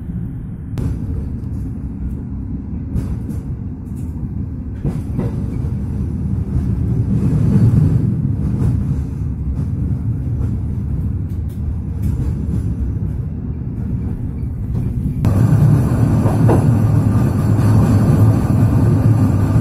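Passenger train running along the track, heard from inside its last carriage: a steady low rumble of wheels on rail with a few sharp clacks. About fifteen seconds in the sound changes abruptly and becomes louder and hissier.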